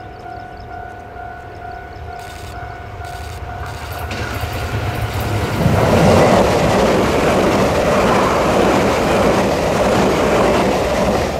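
A level-crossing warning signal sounds a steady tone. About four seconds in, an express passenger train's approach begins to rise over it. From about six seconds the train passes loudly, its wheels rumbling and clattering on the rails.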